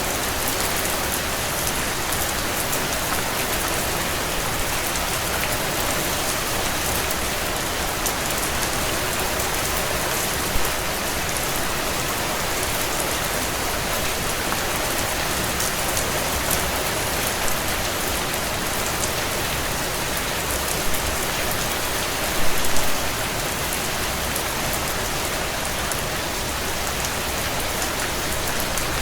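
Heavy rain drumming steadily on a tin roof, an even hiss of countless drops, with a few louder single taps and a short cluster of them about three-quarters of the way through.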